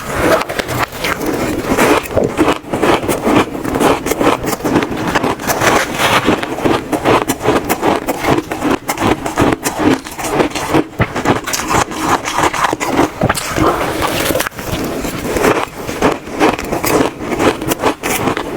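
Close-miked biting and chewing of crunchy frozen shaved ice: a dense, unbroken run of crackling crunches.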